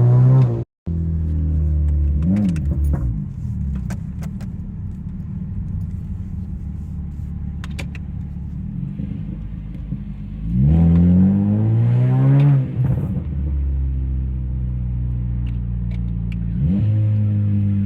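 2012 Honda Civic 1.8-litre four-cylinder through an aftermarket exhaust, idling and being revved: a short blip about two seconds in, a longer rev that rises and falls around the middle, and another rise near the end. A few sharp pops and crackles come from the exhaust after the revs.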